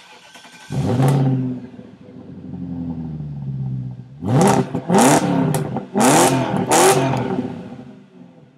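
BMW E39 540i's 4.4-litre V8 through a Bassani aftermarket exhaust. It starts up under a second in, flares loudly and settles to idle, then is blipped four times in quick revs before dropping back to idle.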